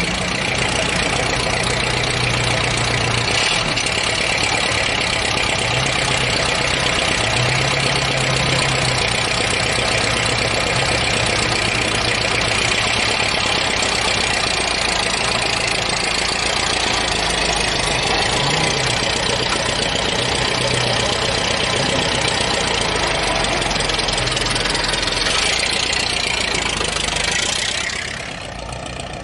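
A vehicle engine running steadily under a dense wash of noise, dropping in level near the end.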